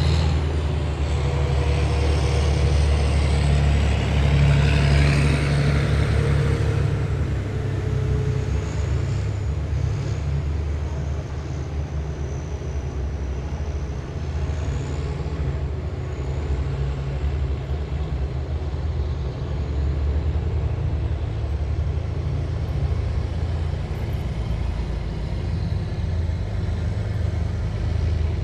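Heavy military vehicles passing in a column, their diesel engines making a steady deep drone. For the first several seconds there is louder tyre hiss and a whine that sweeps in pitch as a vehicle goes by.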